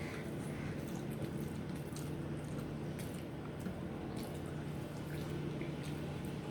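Soft, wet eating sounds of rice and curry, with many small clicks, over a steady low hum.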